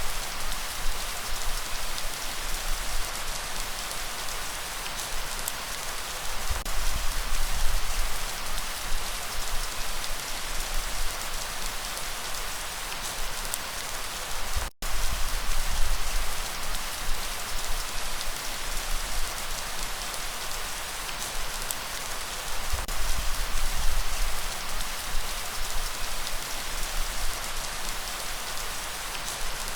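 Steady heavy rain falling on a surface, a dense even patter of drops with a low rumble underneath. It breaks off for a split second about halfway through.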